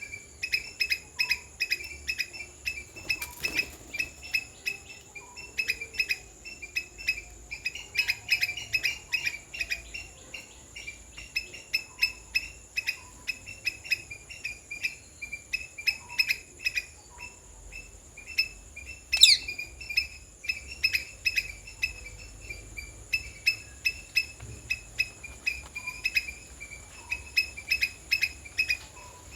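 Quick, even series of short high chirps, several a second, over a steady high-pitched insect drone. One sharp falling call about two-thirds of the way through.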